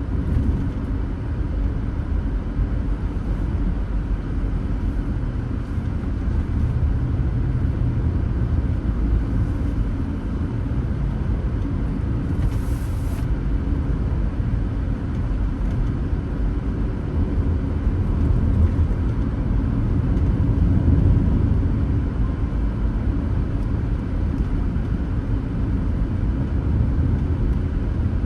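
Steady low rumble of a car driving, engine and tyre noise as picked up by a dashcam, with a brief hiss about halfway through.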